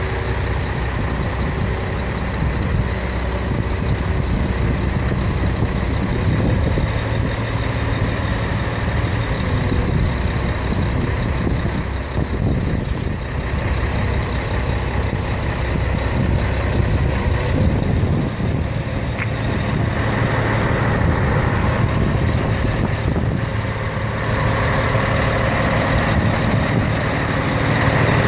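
Scania concrete-pump truck's diesel engine running steadily, with a faint high whine from about ten to sixteen seconds in.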